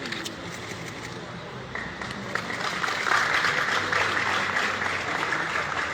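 A crowd applauding, the clapping swelling and getting louder about three seconds in.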